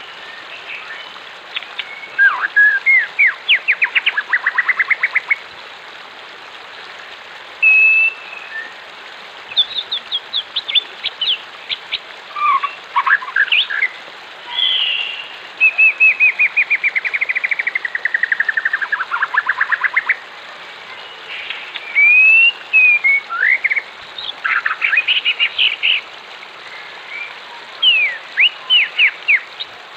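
Wild songbirds singing in phrases of fast chirps and trills a few seconds apart, one long trill falling in pitch about halfway through, over a steady hiss of water.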